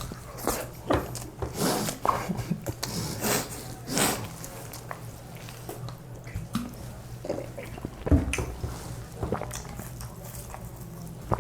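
People chewing and biting into burgers, with irregular wet mouth and chewing sounds close to the microphone.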